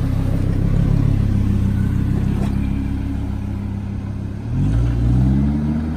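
Lamborghini's engine running low and steady, then revving up with a rising pitch about four and a half seconds in and holding the higher revs.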